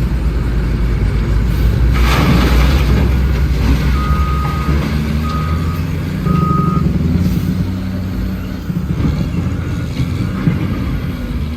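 Heavy diesel truck engine running with a reversing alarm beeping: three clear beeps around the middle, then fainter beeps near the end. A short burst of hiss comes about two seconds in.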